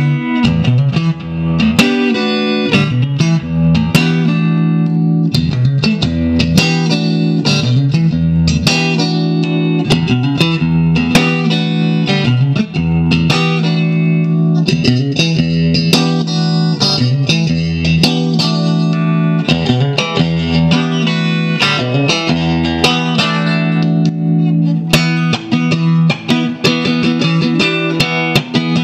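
1965 Fender Stratocaster electric guitar plugged straight into an amp, played continuously in a dense run of picked notes and chords.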